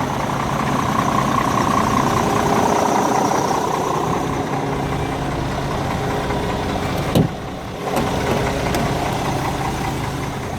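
Scania G410 truck's 13-litre six-cylinder diesel engine idling steadily. A sharp knock about seven seconds in briefly dips the sound, and a smaller knock follows a second later.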